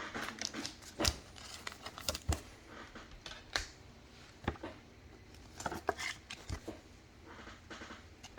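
Trading cards and their packs being handled at a table: scattered light clicks and short rustles as cards are slid, shuffled and laid down.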